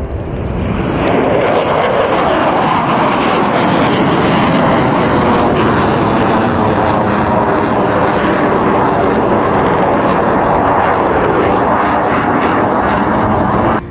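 Loud jet engine noise from Mirage 2000D fighters on a low, fast pass. It builds over the first second, holds steady, and cuts off suddenly near the end.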